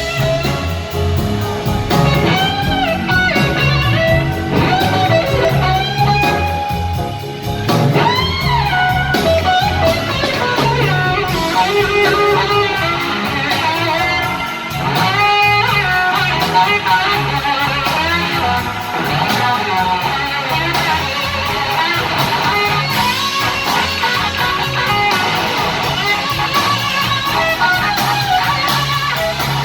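Live blues band playing a slow blues, with an electric guitar lead holding and bending notes up and down over bass and drums.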